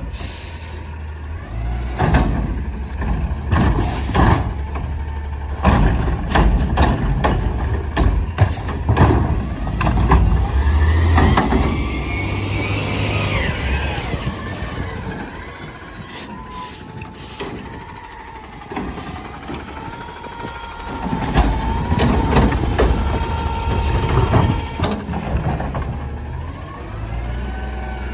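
Garbage truck at work: its engine running with a steady low rumble, broken by repeated sharp metallic bangs and clanks in two busy spells, with whines that waver in pitch in between.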